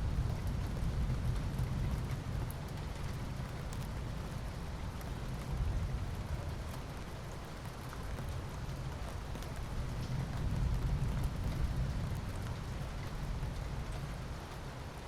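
Steady rain falling, with fine ticks of individual drops, under a low rumble of distant thunder that swells and eases a few times.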